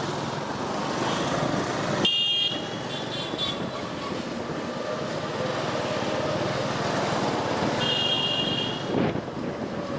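Road traffic noise heard from a moving motorcycle, with vehicle horns honking: a short toot about two seconds in, a fainter one just after, and another near eight seconds.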